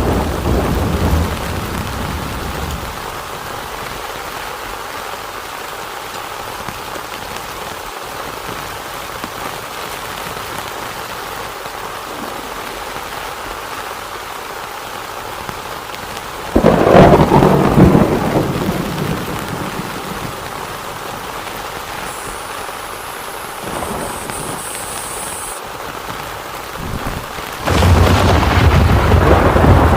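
Steady heavy rain with thunder. A rumble dies away in the first few seconds, a loud clap comes just past halfway and rolls off over several seconds, and another loud rumble starts near the end.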